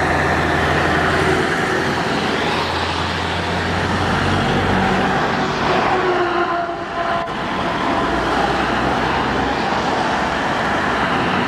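Heavy trucks driving past in a steady stream, with engines running and road noise continuous throughout.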